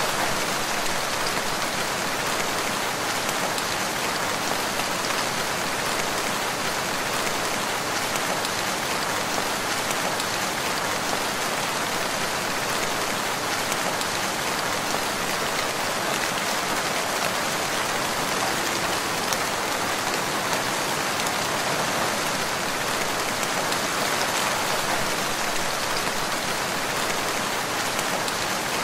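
Steady rain falling in a forest, an even hiss of many drops with no breaks.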